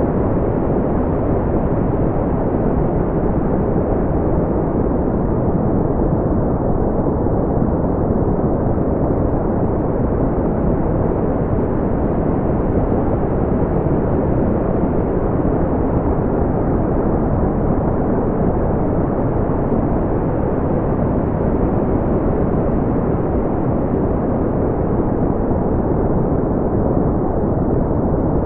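Synthetic brown noise: a steady, deep rumbling hiss, strongest in the low end and falling away toward the treble, with no change in level.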